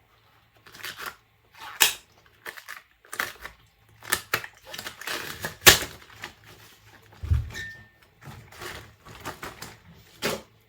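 Dishes and utensils being handled: an irregular string of clinks and knocks, with a dull thump about seven seconds in.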